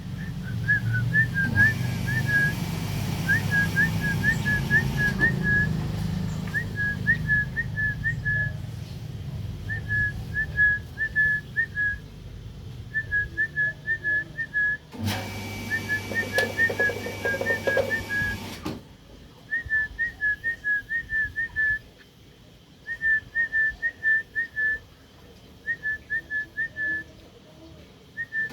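A bird calling in quick runs of short, high chirps, each run about a second long and repeated every second or two. A low rumbling noise sits under the calls for the first few seconds and again past the middle.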